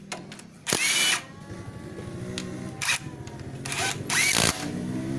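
Stanley SBI201D2K 18 V cordless impact driver running with a steady motor whir, broken by several short, loud bursts.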